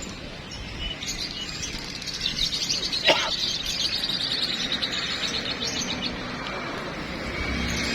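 Many songbirds singing and chirping at once in a dense, overlapping chorus of rapid trills. A single sharp click sounds about three seconds in.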